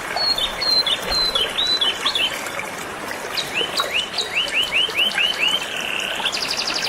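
Canary singing in phrases: first a run of short falling notes, then a quick series of repeated upward-sweeping notes, and a fast buzzy trill near the end. Under it runs the steady rush of flowing river water.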